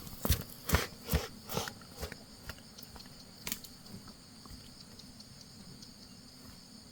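Ducks pecking at feed: quick irregular clicking and snapping bites, several a second, that thin out and stop after about three and a half seconds.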